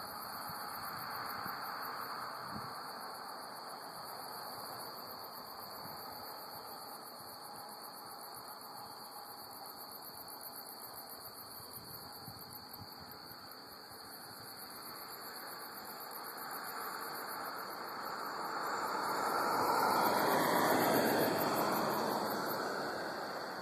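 Crickets chirping steadily in a continuous high, fast-pulsing trill. Near the end a broad rushing sound builds over several seconds and then fades, becoming the loudest thing heard.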